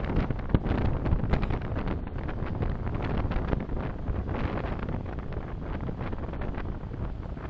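Road and wind noise of a moving car heard through a dashcam microphone: a steady low rumble with frequent small knocks and rattles.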